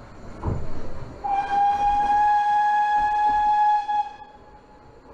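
Steam locomotive whistle blowing one long, steady blast of about three seconds over the running noise of the narrow-gauge train.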